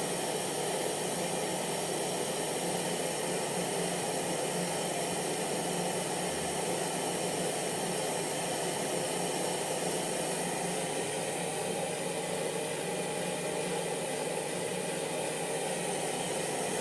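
Hair dryer running steadily: an even rushing blow of air with a faint motor hum and a thin whine on top. It cuts off right at the end.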